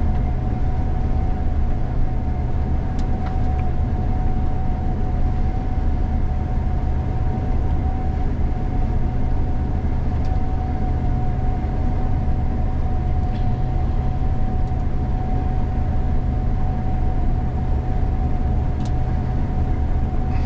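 Gleaner combine harvester running steadily during soybean harvest, heard from inside its cab: a constant low drone with a thin steady whine above it and a few faint ticks.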